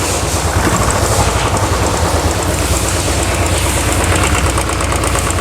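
Royal Enfield Classic 500's single-cylinder engine idling steadily. The hydraulic tappet tick has stopped now that the low engine oil has been topped up and is circulating.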